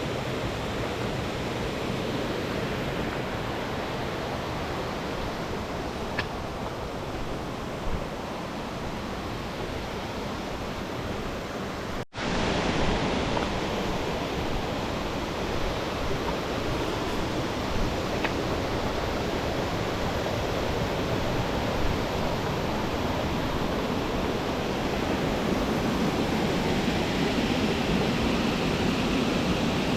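Waterfall rushing steadily, with a brief dropout about twelve seconds in.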